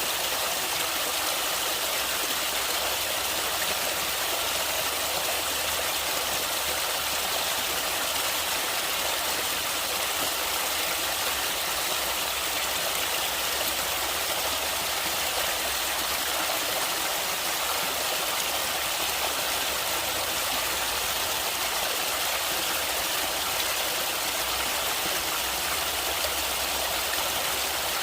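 Stream water flowing steadily, an even rushing sound that does not change.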